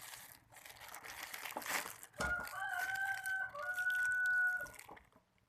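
Rustling at first, then a rooster crows loudly: one long, flat, two-part call lasting nearly three seconds.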